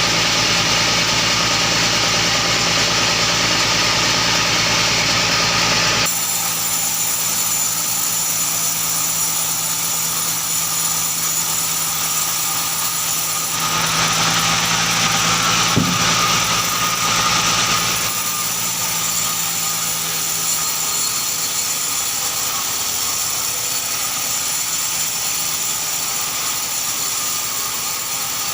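Sawmill machinery engine running steadily. About six seconds in, the sound changes abruptly, and a louder, hissier stretch comes between about 14 and 18 seconds.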